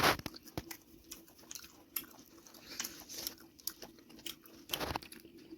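A person chewing and biting on a cooked chicken leg piece: quiet, wet mouth clicks and smacks, with louder bites at the start and again about five seconds in.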